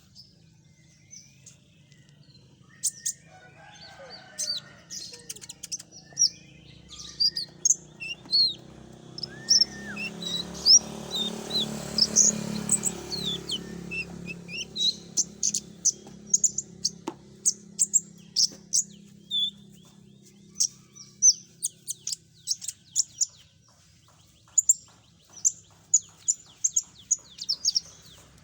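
Konin songbird call recording used as a bird-trapping lure: quick high chirps and trilled phrases in dense runs, busiest in the last few seconds, over a faint low hum. A soft rushing noise swells up and fades away in the middle.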